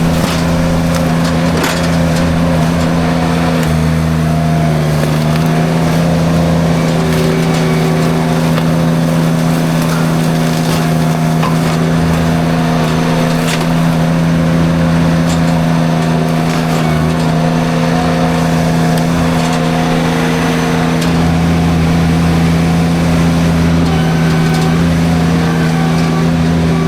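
Derette V1000 mini skid steer running hard under load, driving its forestry drum mulcher, with scattered cracks and snaps of brush being chewed up. The engine note is steady, dipping slightly in pitch a few seconds in.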